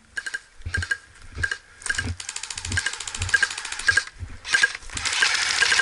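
Steady footsteps with gear rattling at each step, about one and a half steps a second. Over them come long stretches of rapid, fast-ticking airsoft gunfire.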